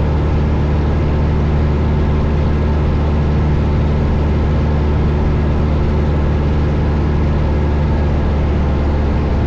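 1972 Cessna Skyhawk's four-cylinder Lycoming engine and propeller in cruise, heard inside the cabin as a loud, steady drone that does not change.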